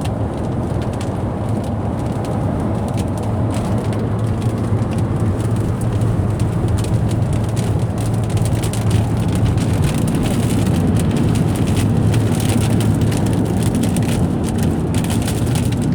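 Inside a moving car: steady engine and road rumble with rain hitting the windshield and roof, the drops growing thicker in the second half.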